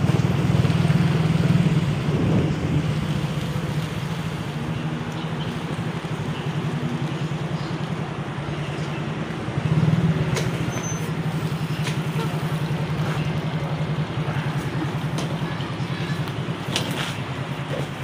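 Motorcycle engine running at low speed, with a steady pulsing hum that swells briefly about ten seconds in.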